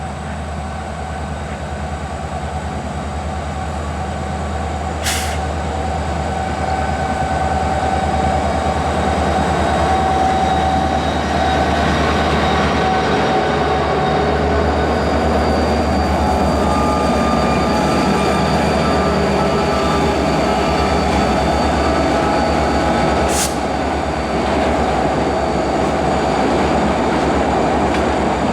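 A pair of CSX EMD SD40-2 diesel locomotives running under power: a steady engine rumble with high whining tones over it, growing louder over the first ten seconds and then holding. Two sharp clicks come about five seconds in and near the end.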